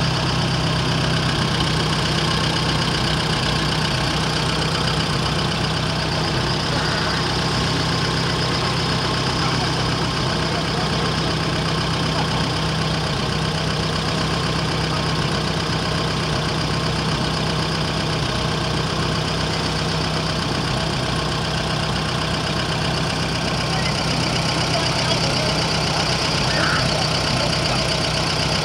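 Restored 1951 Farmall tractor's engine running steadily at an even speed.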